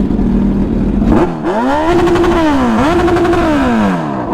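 An engine idling, then revved twice about a second in, each rev climbing, holding at the top for a moment and dropping back. The exhaust is loud, as at a meet where riders show off their pipes.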